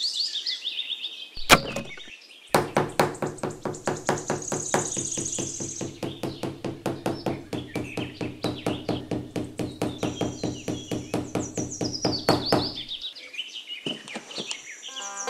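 Rapid, even knocking, about four knocks a second, over a steady low hum. There is one sharp click about a second and a half in. Birds chirp and whistle high above, near the start and again near the end.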